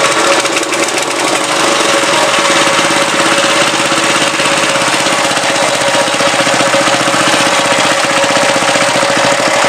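Small petrol engine of a rotavator running steadily with a rapid, even firing beat, now that its oil-fouled spark plug has been cleaned and refitted. The level dips slightly about a second in, then holds.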